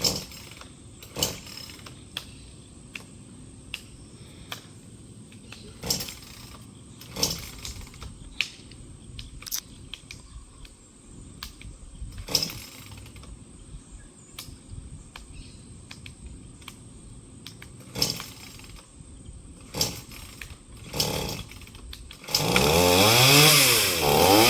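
Scattered sharp knocks and clicks over a faint steady background. About two seconds before the end, a chainsaw starts running and revs, its pitch rising and falling.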